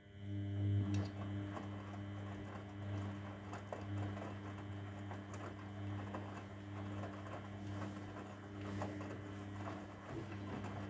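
Grundig washing machine drum motor starting suddenly and running steadily, a low hum with a busy crackling patter of the wet wash tumbling in the drum.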